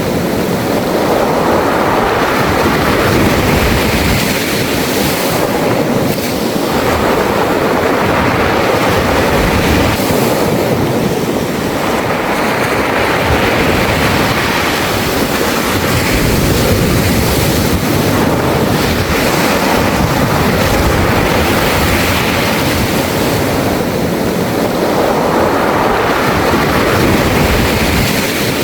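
Waves washing in over a beach of round pebbles, the stones rattling and hissing as each wave surges and draws back, swelling every few seconds. Wind rumbles on the microphone.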